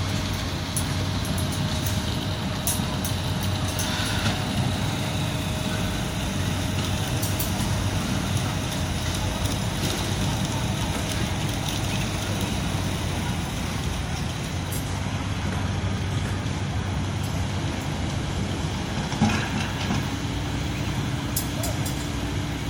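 Diesel engines of heavy construction machinery running steadily, with scattered clanks and one sharp, louder knock late on.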